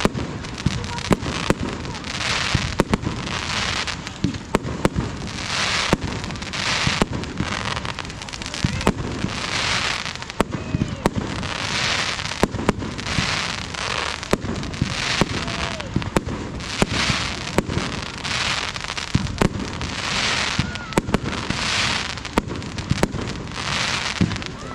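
Fireworks display going off continuously: many sharp bangs mixed with hissing, crackling bursts that recur every second or two.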